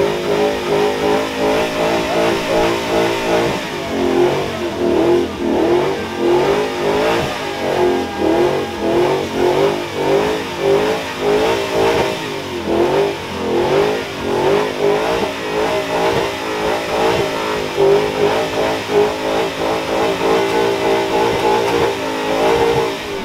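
Ford Mustang engine held at high revs during a burnout with its rear tyres spinning. The revs waver up and down in a rapid, pulsing rhythm throughout, then fall away right at the end.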